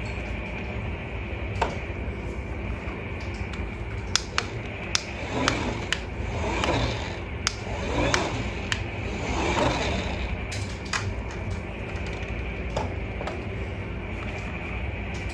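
Remote-control toy fire truck running: a steady motor hum with scattered clicks and rattles, and a few rising-and-falling tones in the middle.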